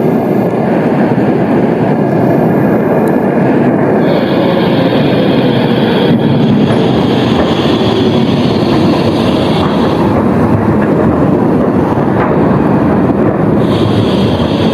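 A tram running close by, its wheels rumbling on the rails. A high steady squeal comes in about four seconds in and fades out about ten seconds in, then returns briefly near the end.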